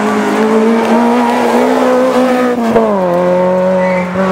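Rally car engine running hard at high revs, its pitch climbing slightly and then dropping about three seconds in.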